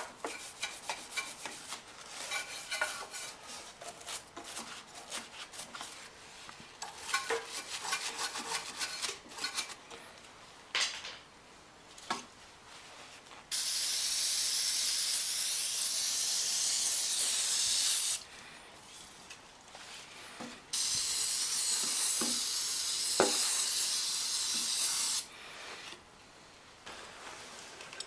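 Aerosol can of brake cleaner spraying in two long bursts of about four to five seconds each, a steady hiss, sprayed onto the mower's carburetor to loosen dirt. Before the spraying, light clicks and rattles of handling.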